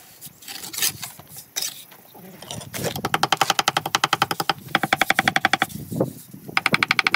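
Electric hammer drill running in rapid, even pulses with a steady whine for about three seconds, stopping, then starting again near the end, after some light scraping and knocking at the start.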